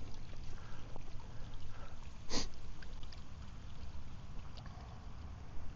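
Wind rumbling on the microphone, with a few faint clicks and one short, sharp hiss like a sniff a little over two seconds in.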